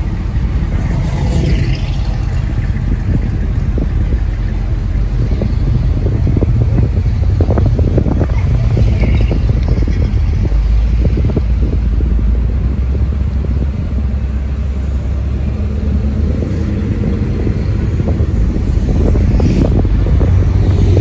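Engines of classic cars cruising slowly past in traffic, a steady low engine sound that grows a little louder near the end.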